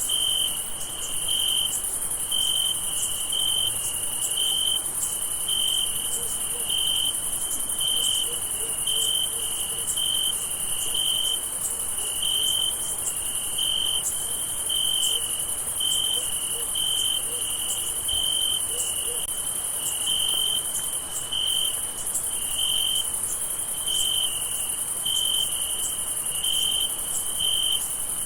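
Night crickets: one cricket chirping in an even rhythm, a little over one chirp a second, over a steady high-pitched insect trill.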